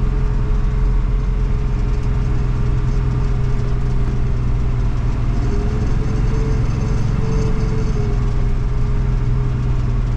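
1980 Chevy K20 pickup running steadily at highway speed in four-wheel drive: a continuous engine and drivetrain drone with a held tone that wavers slightly about six seconds in.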